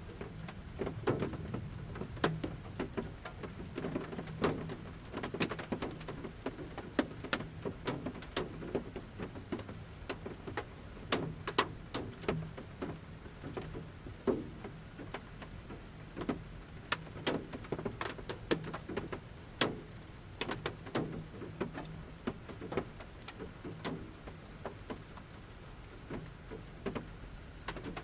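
Large raindrops falling from the forest canopy and pattering at irregular intervals on the metal roof of a camper van, heard from inside: separate sharp taps over a soft background hiss.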